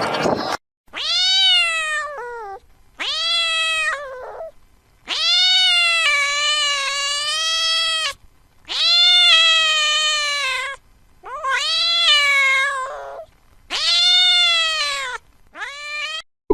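A cat meowing over and over: about seven drawn-out meows, each lasting one to three seconds, with sudden silences between them.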